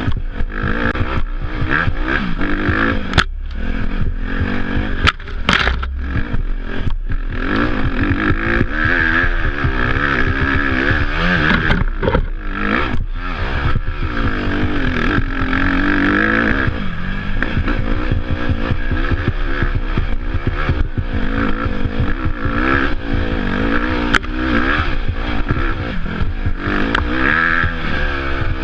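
Dirt bike engine running under load, its pitch rising and falling continually as the rider works the throttle over rough ground. Sharp knocks and clatters come through several times, most of them in the first half.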